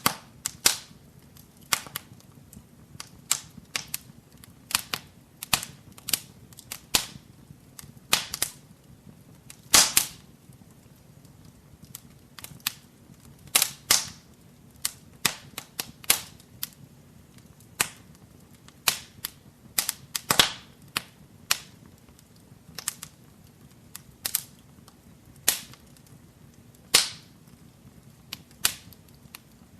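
Wood fire burning in a fireplace, crackling with irregular sharp pops and snaps, several louder pops among them, over a faint low rumble of the flames.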